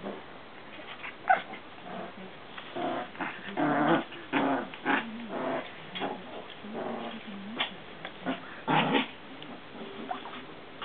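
Maltese puppies vocalising at play in a string of short, pitched bursts, thinning out near the end.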